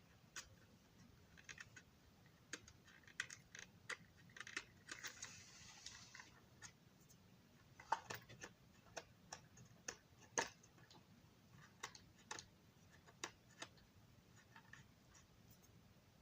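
Small, irregular clicks and taps of plastic parts and small tools being handled on a work surface, with a brief scraping sound about five seconds in and two sharper clicks around eight and ten seconds.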